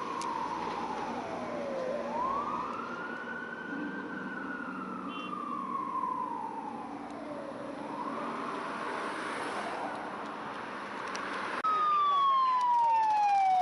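Emergency sirens on responding fire apparatus, wailing in slow rising and falling sweeps. Near the end a louder, closer siren cuts in abruptly, falls in pitch, then sweeps back up.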